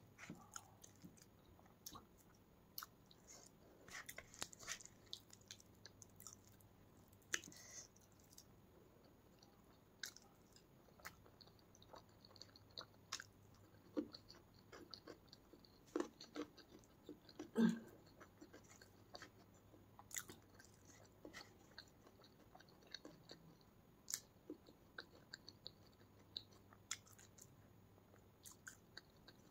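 Close-miked eating: a person chewing mouthfuls of rice and curry, quiet and steady, with soft irregular mouth clicks and wet smacks, one louder smack a little past the middle.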